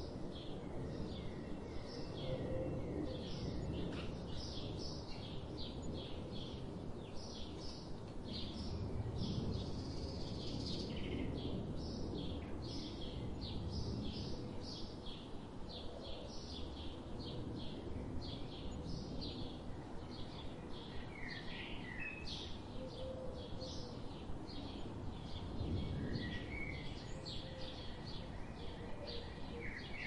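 A small bird chirping over and over, a short high chirp about two to three times a second without a break, with a few other, sliding bird calls in the latter half, over a low steady background rumble.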